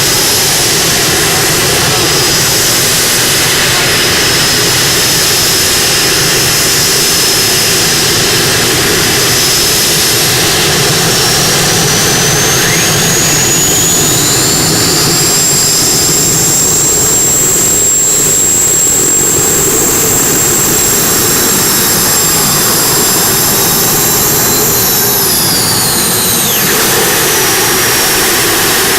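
A Modified-class pulling tractor running hard. Its loud high whine rises about twelve seconds in, holds steady, then falls away near the end, over a constant low engine rumble.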